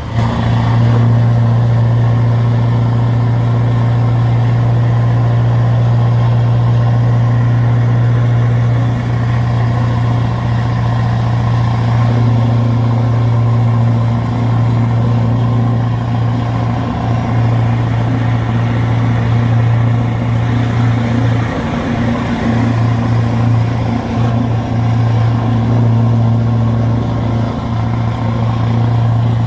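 Scania R560 V8 diesel truck engine, remapped to 690 hp, pulling hard under heavy load up a long climb with a steady, loud low drone. The drone briefly drops out about two-thirds of the way through, then picks up again.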